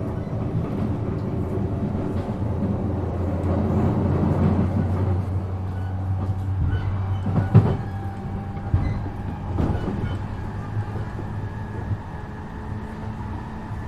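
E233 series 7000 electric commuter train running, with a steady low hum of motor and wheel noise. A sharp knock comes about halfway through and a few lighter clicks follow. After the knock the hum eases off and faint steady tones remain.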